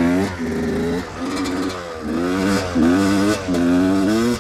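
1993 Yamaha YZ250 two-stroke dirt bike engine revving under load in repeated throttle bursts, its pitch rising and dropping about six times. It falls back to a lower, steadier note near the end.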